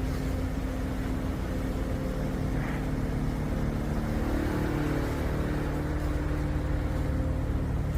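A car engine running steadily, its pitch shifting up slightly about halfway through.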